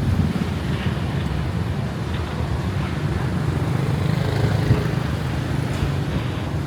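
Steady low rumble of a road vehicle, with a faint hiss of wind or traffic above it.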